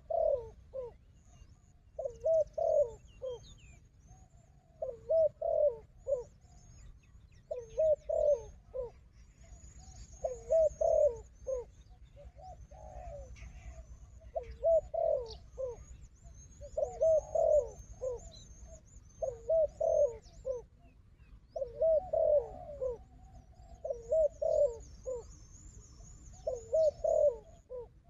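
Spotted doves cooing: a short phrase of several coo notes repeated about every two and a half seconds, about a dozen times. Faint high chirps sound above it.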